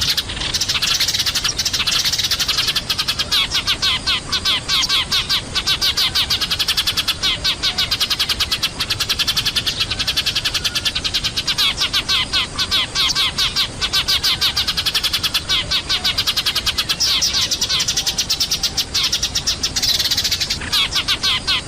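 Eurasian tree sparrows chirping noisily in a dense, continuous chorus of rapid chirps, a recording used to lure sparrows down.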